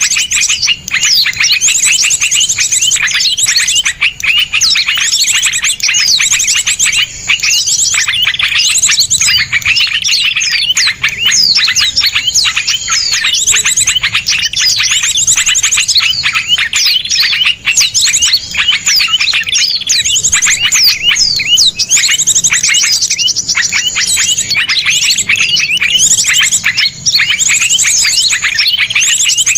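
Several small songbirds singing at once: sharp, rapid chirps and fast high trills packed tightly together without pause.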